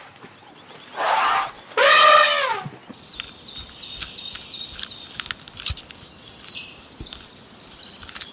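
Two drawn-out animal calls about a second apart, each falling in pitch at the end, followed by a run of quick high bird chirps and clicks.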